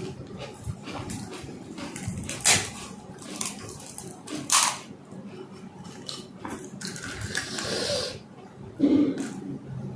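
Panipuri being eaten close to the microphone: wet mouth sounds and a couple of sharp crunches of the crisp puri shells, with a short hissing rush about seven seconds in.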